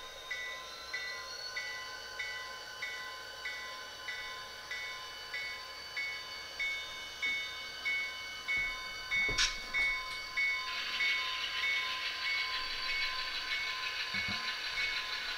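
SoundTraxx Tsunami2 sound decoder in an HO-scale Athearn Genesys GP40-2 model locomotive, playing the locomotive bell ringing steadily, about three strikes every two seconds, over the diesel engine running sound. A sharp clank about nine seconds in, and a hiss joins shortly after.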